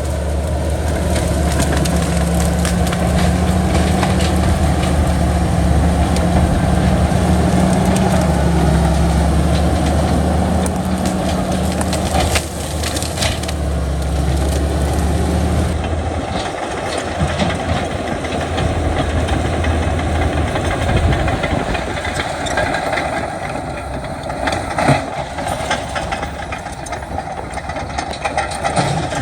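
Heavy diesel earthmoving machinery running, with stone and soil crunching and scraping as it is pushed. About halfway through, the steady engine hum drops away and gives way to rumbling and scattered knocks.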